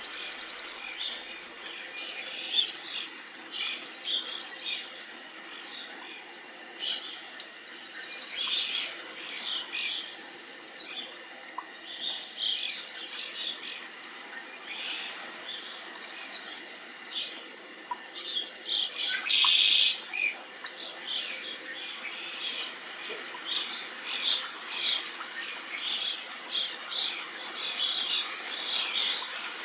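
A flock of small songbirds chirping at a busy feeder: many short, high chirps throughout, with one louder call of about half a second some twenty seconds in.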